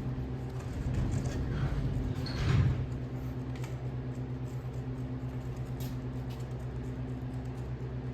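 A motor running with a steady low hum that pulses about five times a second, with a brief louder rush about two and a half seconds in.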